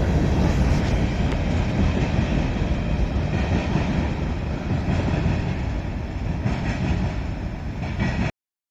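Train passing on the rails: a steady, low, dense noise that slowly fades, then cuts off abruptly near the end.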